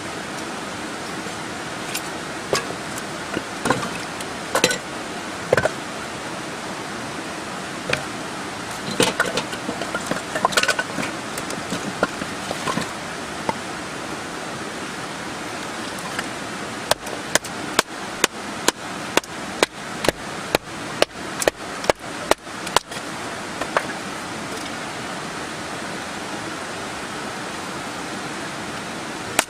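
Firewood being split with a run of about fifteen sharp, evenly spaced knocks, two to three a second, after a few scattered knocks and clatter, over a steady rushing background.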